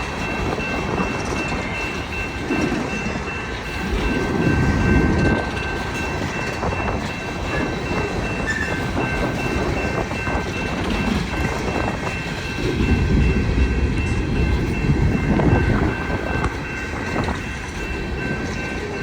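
Empty coal train's hopper cars rolling past, wheels clattering over the rails. Strong wind gusts buffet the microphone, loudest about four seconds in and again from about thirteen seconds.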